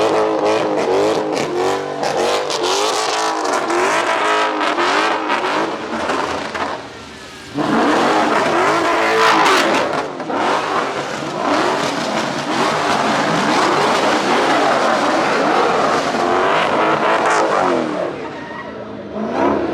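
A car engine revving hard up and down again and again, with tyres skidding. The sound dips briefly a little after seven seconds, then carries on.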